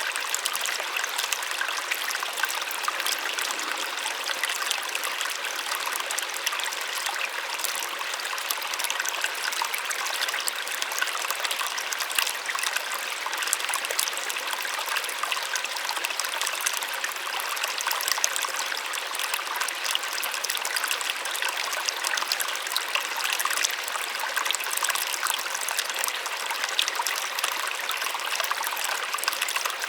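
A small waterfall splashing steadily, a soft, even rush of falling water with little low rumble.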